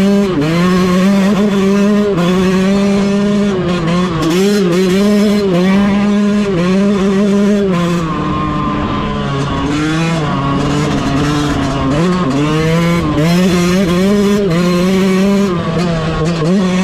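2022 Yamaha YZ125's 125cc single-cylinder two-stroke engine under way on a trail ride. The engine note repeatedly drops and climbs back every second or two as the throttle is rolled off and on, with a lower, quieter stretch in the middle.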